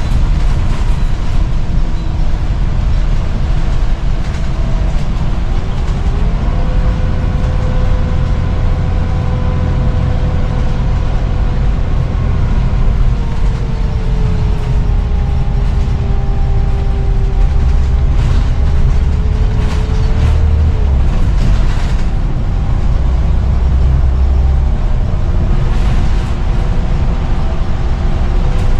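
A 2005 Scania CN94UB (Omnicity) bus under way, its diesel and driveline giving a heavy steady rumble. Whining tones from the drivetrain rise as it pulls away about six seconds in and fall again around twenty seconds. It sounds very healthy for its age.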